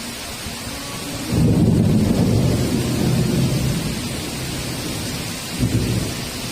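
Heavy rain hissing steadily. About a second in, a loud thunder rumble breaks in and rolls on for several seconds as it fades, with a second short clap near the end.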